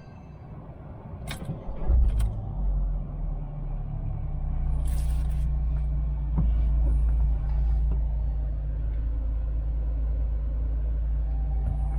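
Vauxhall Corsa VXR's 1.6-litre turbocharged four-cylinder engine starting about two seconds in, after a couple of clicks, with a brief flare, then settling into a steady idle.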